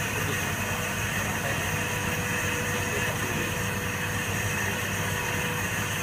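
Steady mechanical hum with a faint constant tone running through it.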